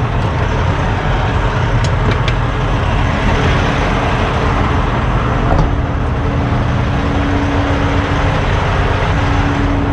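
Semi-truck diesel engine idling close by, a loud, steady rumble, with a steady hum joining about halfway through.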